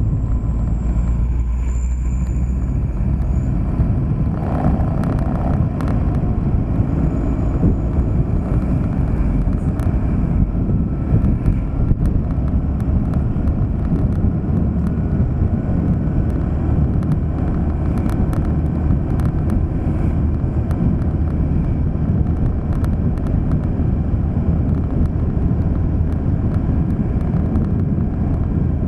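A car driving: a steady low rumble of engine and road noise, with light ticks here and there.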